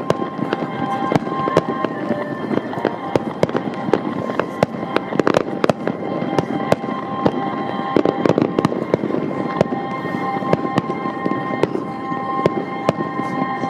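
Aerial fireworks bursting in a dense, continuous run of sharp bangs and crackles, several a second, with steady music underneath.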